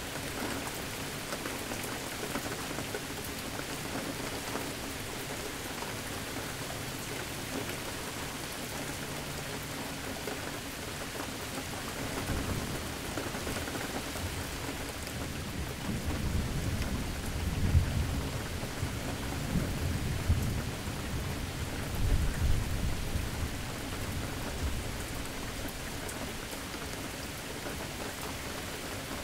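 Steady rain falling during a thunderstorm. Partway through, a low roll of thunder builds, peaks several times, and dies away after about ten seconds.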